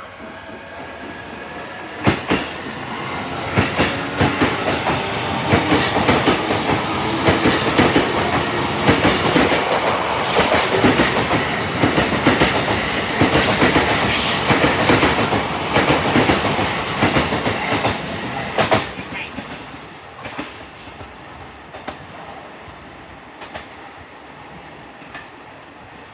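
Electric train running past along the station tracks, its wheels clacking over rail joints. It grows louder over the first few seconds, stays loud with sharp clacks through the middle, and fades away after about 19 seconds.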